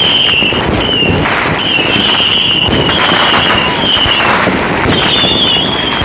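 Many fireworks and firecrackers going off at once, a dense, continuous crackle of bangs and pops with repeated high whistles over it.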